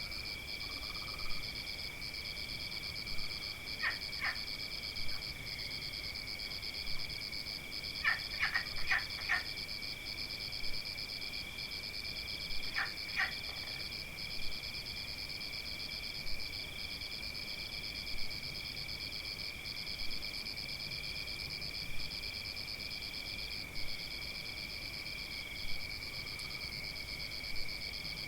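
Steady, high chorus of crickets or other insects trilling in even pulses, with frogs giving short clicking calls in quick groups of two to five, about 4, 8 and 13 seconds in.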